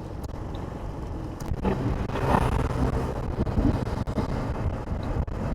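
KTM adventure motorcycle on the move: engine running under steady road noise, growing a little louder about a second and a half in.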